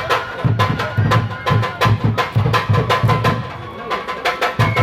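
Shinto kagura music played live: a drum beats about three strokes a second, with sharp clicking strikes and a steady high held tone over it. The drumming pauses briefly near the end.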